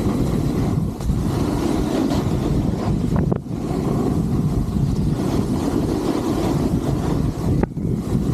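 Wind rushing over the microphone with skis running on snow during a downhill ski run: a loud, steady rush, broken by brief dips about three seconds in and near the end.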